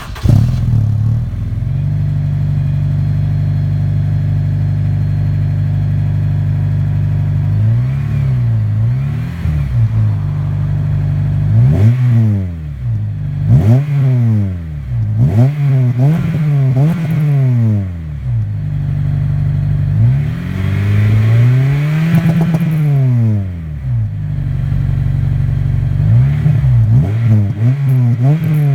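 Honda Integra DC5's four-cylinder engine breathing through a JIC titanium rear muffler, idling steadily for several seconds and then free-revved in a series of quick blips. One longer rev comes in the later part.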